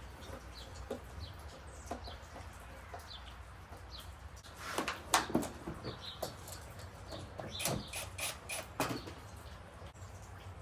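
Birds chirping in short, repeated calls over a low steady hum, with a run of sharp clicks and knocks about halfway through, the loudest just after five seconds in.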